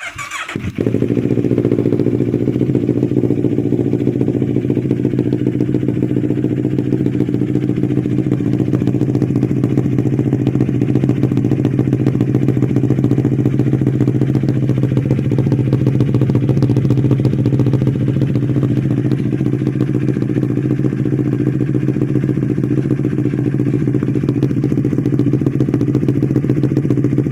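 CFMoto 650NK's parallel-twin engine through an aftermarket Akrapovic exhaust, starting up with a short crank and catching about a second in, then idling steadily.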